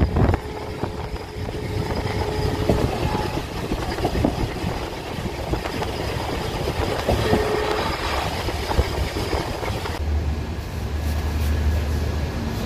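Indian Railways passenger train running on the track: a steady rumble with wheels clacking over rail joints. Near the end the sound shifts to a deeper, steadier rumble.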